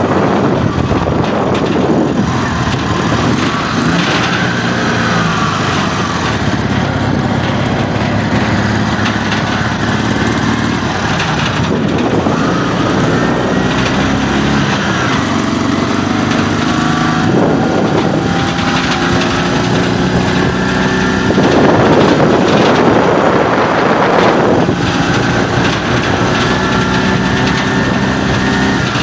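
Motorcycle engine running under way, its note climbing again and again as it pulls up through the gears, with rushes of wind on the microphone between.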